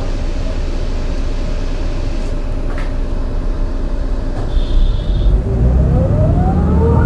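MAN NL202 CNG city bus engine running steadily, then pulling harder about four and a half seconds in with an uneven, rough-edged rumble, while the ZF Ecomat automatic gearbox whine rises in pitch as the bus accelerates. The engine has a bad misfire, according to the owner. A short high beep sounds as the bus pulls away.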